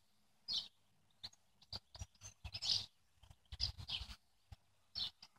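Small songbirds chirping in short, separate high-pitched calls, scattered through with brief pauses between them.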